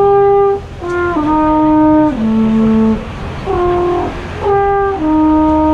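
A wind instrument played live, a simple melody of held notes that steps down in pitch and then climbs back, with short breaks between phrases and a long held note near the end.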